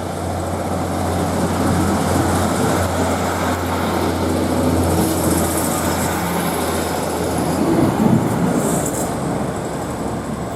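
Northern Class 156 diesel multiple unit running at the platform, its diesel engine giving a steady low hum under broad mechanical noise. The sound grows over the first couple of seconds and is loudest about eight seconds in.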